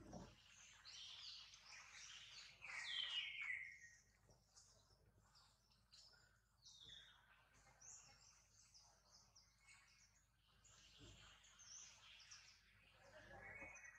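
Faint calls and chirps of wild birds. The loudest call comes about three seconds in and slides downward in pitch.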